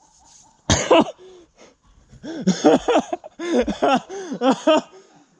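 People laughing: one loud burst about a second in, then a run of short, rising-and-falling bursts.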